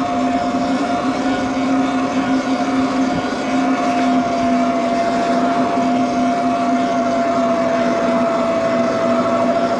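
Electric bike motor whining steadily while riding, with wind and tyre noise underneath. The whine dips slightly in pitch near the end.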